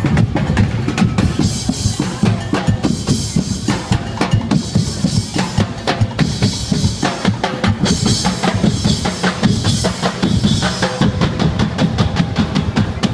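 Drum group playing a fast, dense rhythm on bass drums and snares, with a bright high hiss joining in two stretches.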